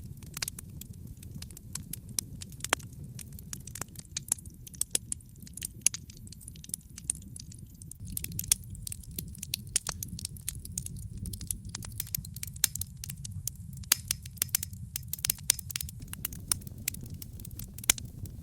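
Wood fire burning in a fireplace: a steady low rumble of flame under constant crackling and sharp popping, busiest in the second half.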